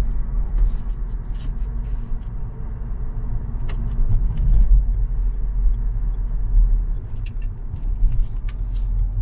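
Steady low rumble of a car in motion, heard from inside the cabin as road and engine noise, with a few light ticks and rattles over it.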